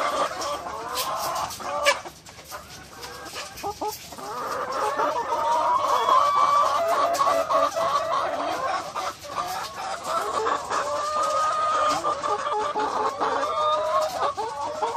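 A flock of hens clucking and cackling, many calls overlapping, with a brief quieter spell about two seconds in.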